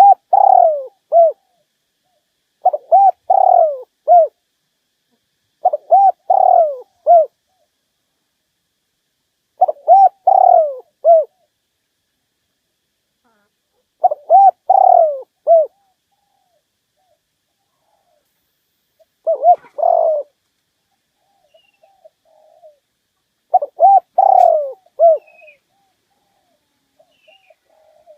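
Spotted dove cooing its song: a short phrase of three or four coos repeated seven times, about every three to five seconds. It is a decoy call, used to draw rival doves in to fight.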